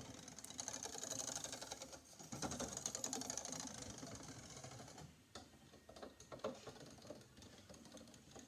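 Rapid clicking clatter from piano keys being worked, louder for the first few seconds and fainter after about five seconds.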